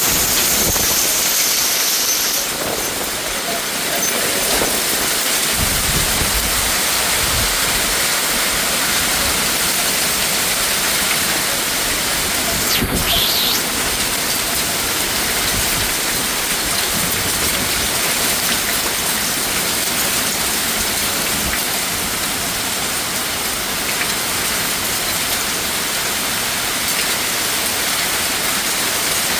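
Rain falling steadily, an even, dense hiss. A brief thump cuts through about halfway through.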